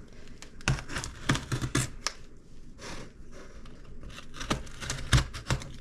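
A box being handled and opened by hand: an irregular run of sharp clicks, taps and short scrapes and rustles of the packaging.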